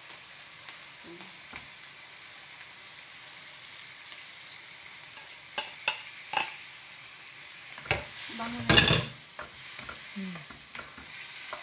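Chicken wings sizzling in hot oil in a wok, with a spatula stirring and a few sharp knocks of the bowl and spatula against the pan. About eight seconds in comes a loud, dense burst of sizzling and splashing as the Sprite marinade is poured into the hot pan.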